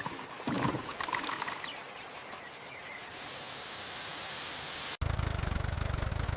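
Water pouring and trickling, fading into a hiss that rises over a couple of seconds. It cuts off suddenly near the end, and a small engine starts running with a steady low drone.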